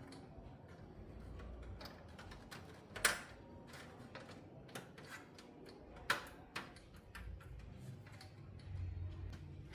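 Faint scattered clicks and taps of small tools and parts being handled, with two louder knocks about three and six seconds in.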